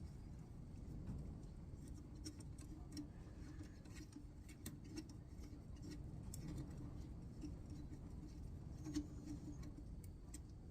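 Faint, irregular small clicks and light scraping of metal hardware and a hand screwdriver as screws are started into the rifle's stock folding mechanism.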